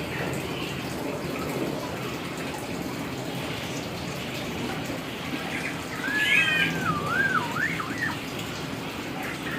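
Hill myna whistling a winding phrase that glides up and down for about two seconds, starting about six seconds in, over a steady rushing hiss.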